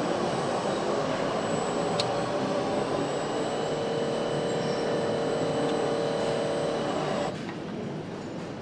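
Steady mechanical whirring noise with a hum, cutting off suddenly about seven seconds in.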